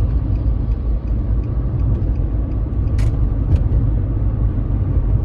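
Steady low rumble of a car driving, road and engine noise heard from inside the cabin, with two short ticks about three seconds in, half a second apart.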